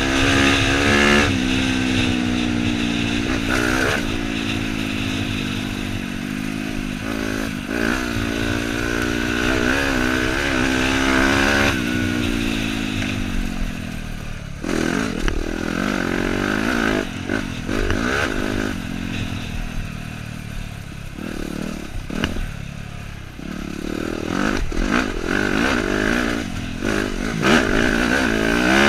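Dirt bike engine revving up and down as it is ridden along a trail. Later its note breaks up among knocks, rattles and scraping from the rough ground.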